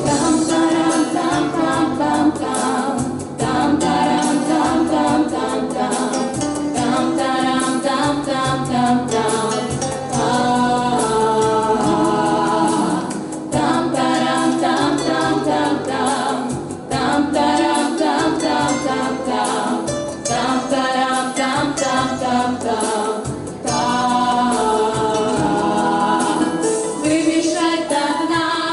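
Vocal quartet singing in close harmony, phrase after phrase, with no break.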